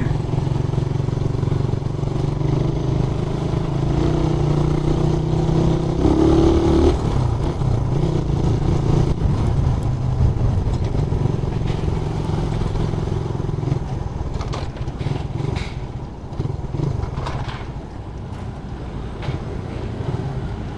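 Suzuki Raider 150 motorcycle's engine running under way, a steady drone whose pitch steps up about six seconds in, then eases off and gets quieter after about fourteen seconds.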